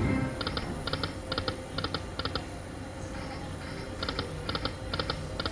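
Poker machine sounding short electronic beeps in quick groups of three, about two groups a second, with a pause of over a second midway through.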